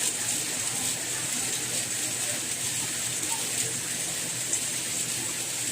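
Soft rain falling steadily: an even hiss, brightest in the high range, with faint scattered drops.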